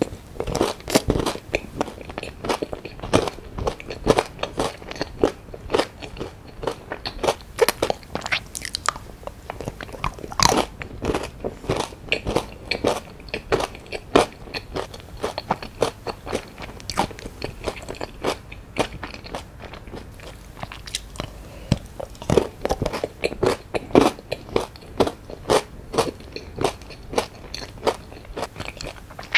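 Mouth chewing and crunching a strawberry Milka chocolate bar, with many crisp crunches and a few louder bites about ten and twenty-four seconds in.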